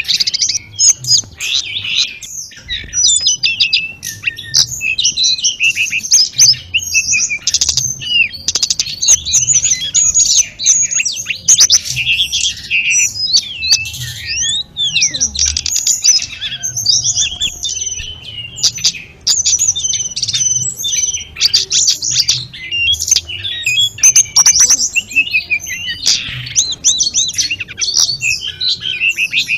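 Sulingan gunung (tledekan gunung), a small Indonesian mountain songbird, singing a long, busy song of quick high chirps, trills and whistled glides with hardly a pause.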